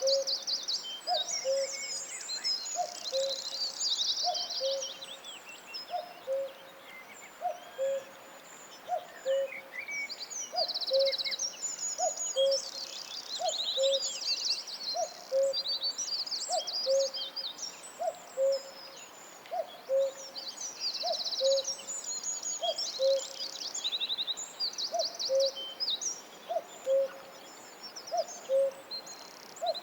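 Forest birdsong. Several songbirds sing high chirps and rapid trills throughout, over a steady series of low single notes repeated a little faster than once a second.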